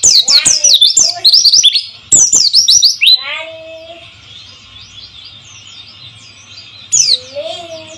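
White-eye (pleci, Zosterops) song: loud, rapid runs of high, descending chirps for the first three seconds and again near the end, with softer chirping between. A lower call that rises and falls comes twice, over a steady faint hiss.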